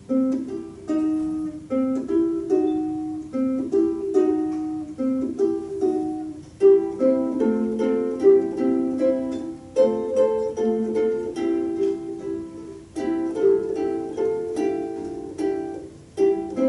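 Ukulele playing an instrumental tune: a plucked melody line over chords, in a small room, with a brief pause between phrases shortly before the end.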